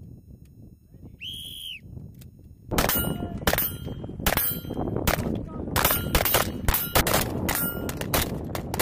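Rapid rifle fire on a shooting range, several sharp cracks a second starting about a third of the way in, each followed by a metallic ring typical of rounds striking steel targets. Wind rumble underneath.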